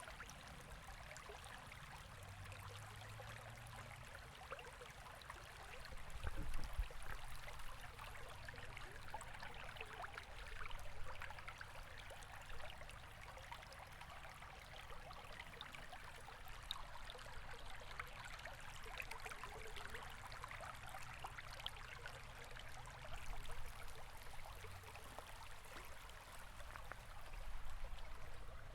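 River water flowing steadily, a continuous rush that swells briefly louder a few times.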